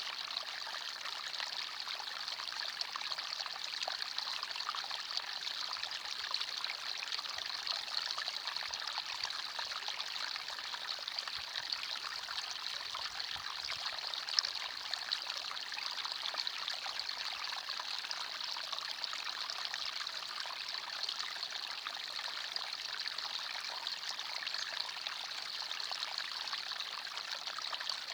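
Small forest stream trickling and babbling over stones, a steady even rush of water with fine splashes.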